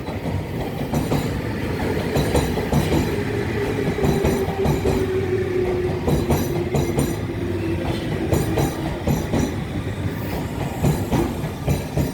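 Tobu 30000-series electric train arriving and slowing: a steady motor whine that slowly falls in pitch as it brakes, over the clatter and clicks of the wheels on the rails.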